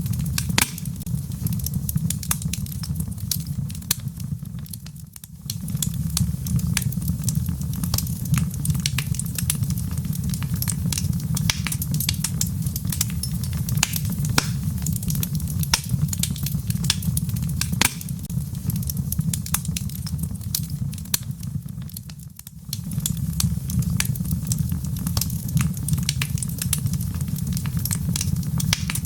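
Wood fire crackling, with many sharp pops and snaps over a steady low rumble, and rain falling. The sound drops away briefly twice, once about five seconds in and again about two-thirds of the way through.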